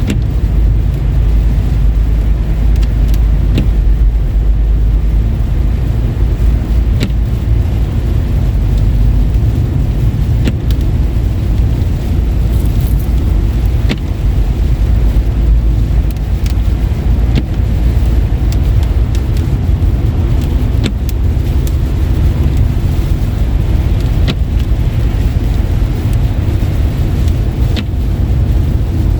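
Car driving on a wet road in rain and snow, heard from inside: a steady loud low rumble of engine and tyres, with scattered faint short ticks.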